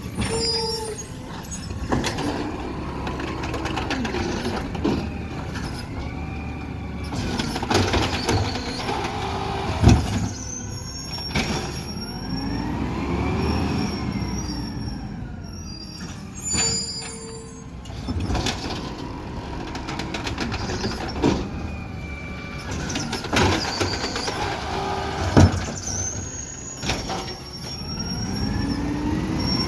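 Garbage truck at work, going through two similar cycles: the engine revs up and falls back as the hydraulics run, with high squeals and a sharp bang in each cycle, about 10 s and 25 s in.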